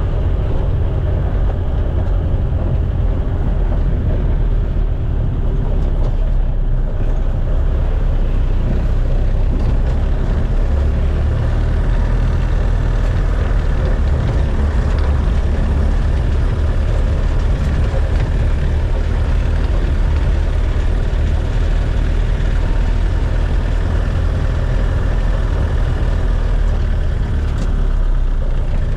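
A motor vehicle running steadily, a continuous low rumble of engine and travel noise.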